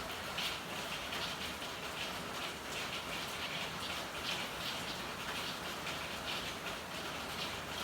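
Steady rain falling, with many irregular drips and patters of drops striking hard surfaces.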